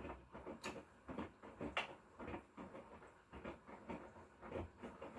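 Laundry being handled: faint, irregular rustles and light knocks.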